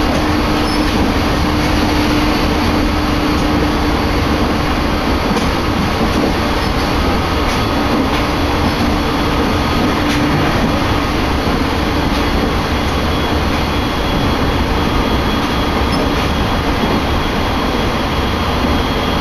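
Running noise inside the passenger cabin of a JR Uchibō Line electric commuter train under way, steady throughout, with a low hum that fades about halfway through.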